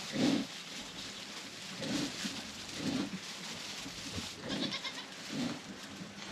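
A sow and her newborn piglets: the sow grunts in short, low grunts about once a second, and one brief high piglet squeal comes about four and a half seconds in.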